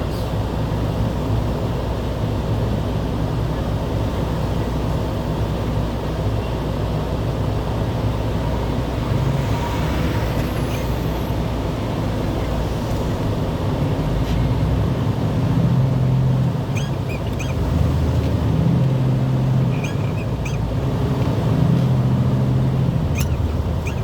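Motor vehicle running: a steady low engine rumble with road noise, the engine's note growing stronger and shifting in pitch in the second half, with a few light clicks near the end.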